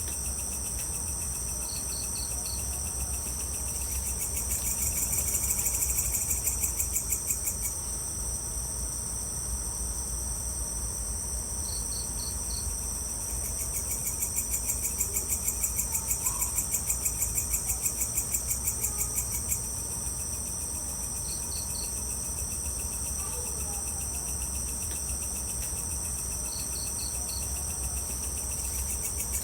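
Evening insect chorus: crickets trilling steadily and high, joined twice by a louder, rapidly pulsing call that swells and stops, with short three-note chirps every several seconds. A low steady hum runs underneath.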